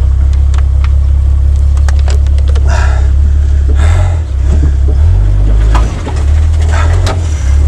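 Toyota Land Cruiser engine running under way, a low steady drone heard from inside the cab, its note dipping and shifting briefly about four and six seconds in as the throttle changes. Light rattles and knocks from the cab and body run through it.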